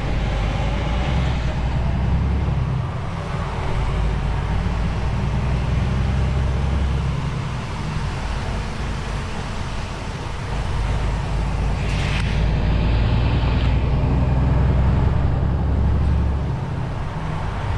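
DAF XF truck's diesel engine running in slow traffic, its low drone swelling and easing several times as the load changes. There is a brief hiss about twelve seconds in.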